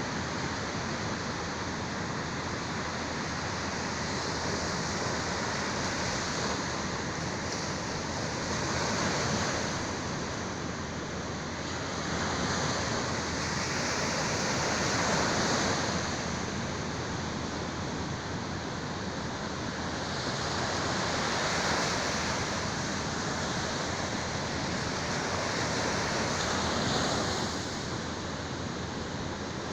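Sea waves washing onto the shore, a continuous surf that swells and eases every five or six seconds.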